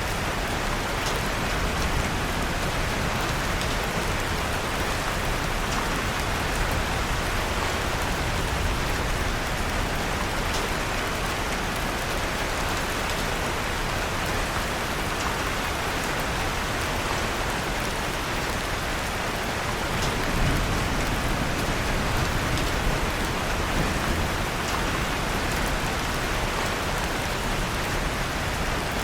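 Steady rain falling on a surface, an even hiss of many raindrops, mixed with faint crackles from a wood fire in a fireplace. A brief low swell comes about twenty seconds in.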